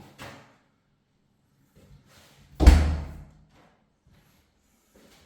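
A newly hung interior door is swung shut and closes with one loud, solid thud about two and a half seconds in, after a few faint knocks. The door shuts fully in its new frame.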